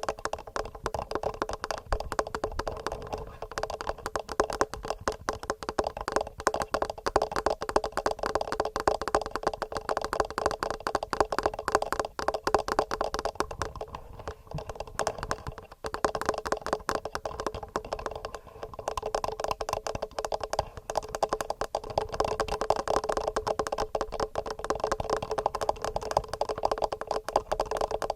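Fingernails tapping fast and regularly on a TASCAM recorder's microphones: a dense, even run of clicks, many a second, with a steady hollow ring. The tapping thins briefly about halfway through.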